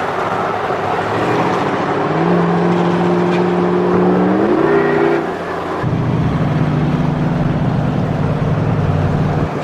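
Truck engines running on the road: a steady pitched drone steps up in pitch about four and a half seconds in and stops. A louder, low, steady engine drone takes over about six seconds in.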